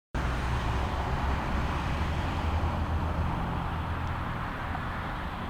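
Steady low rumble of a motor vehicle's engine, with road and traffic noise over it, easing slightly in the second half.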